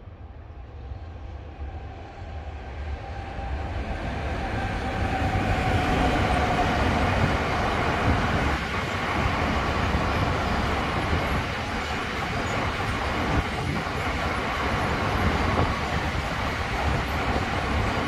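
Freight train of car-transporter wagons loaded with vans, hauled by an E189 electric locomotive, approaching and passing: a rumble that grows louder over the first six seconds, then holds steady with the clicking of wheels over rail joints.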